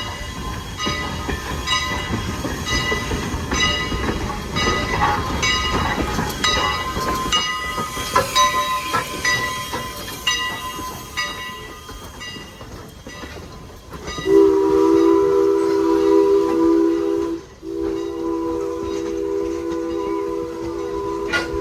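A train passing with its bell ringing in steady repeated strokes, then from about two-thirds of the way in a loud multi-note chime warning blast, broken once briefly and sounded again.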